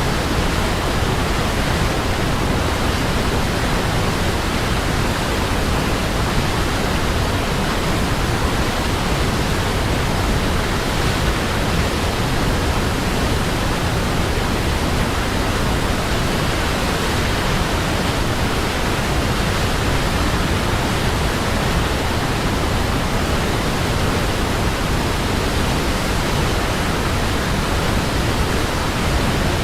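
Steady, even rush of falling water from a waterfall, with no changes or separate splashes.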